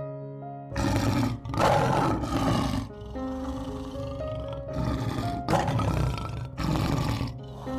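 A wild animal roaring over background music: a string of loud, rough roars starting about a second in, with a pause in the middle, laid over sustained music notes.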